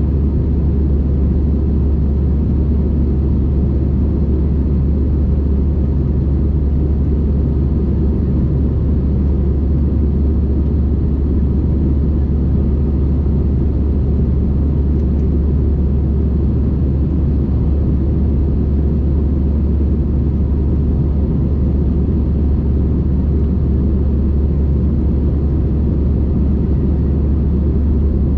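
Steady low rumble of an Airbus A320's jet engines and rushing air, heard inside the passenger cabin.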